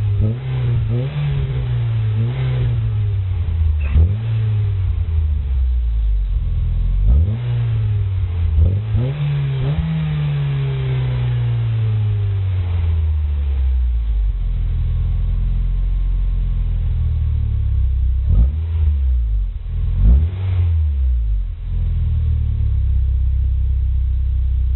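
Rover 214's 1.4-litre 16-valve K-series four-cylinder petrol engine being revved through a stainless-steel aftermarket exhaust backbox. Several quick throttle blips, then a longer rev that falls slowly back to a steady idle, and two more sharp blips later on before it settles to idle again.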